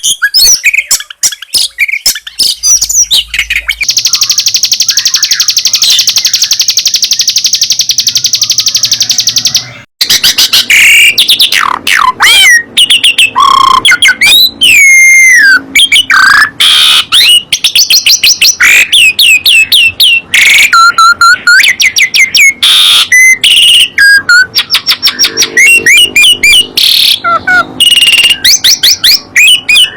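Songbird song, loud and close: rapid high chirps, then a steady buzzing trill for several seconds, and after a brief break about ten seconds in, a run of varied whistled notes sliding up and down.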